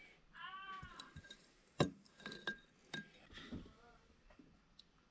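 Glass and dishware clinking several times, sharp separate knocks with the loudest about two seconds in. A short high call is heard near the start.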